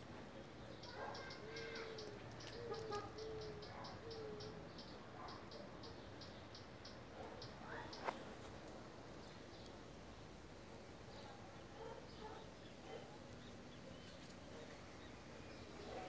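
Faint birdsong: a very high, short falling chirp repeated about once a second, with a quick run of ticking notes during the first few seconds and a few lower gliding notes early on.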